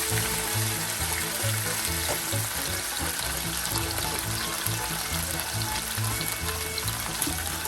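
Chicken leg quarters sizzling steadily in oil, skin-side down in a hot flat-bottomed wok, with a background music track carrying a repeating bass line.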